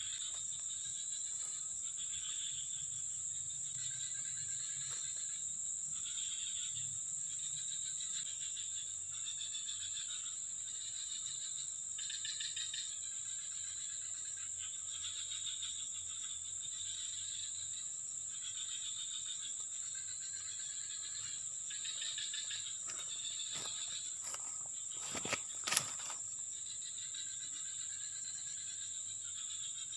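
Insects chorusing: a steady high-pitched drone with pulsing trills beneath it. A few sharp clicks come about 23 to 26 seconds in, the loudest one near the end.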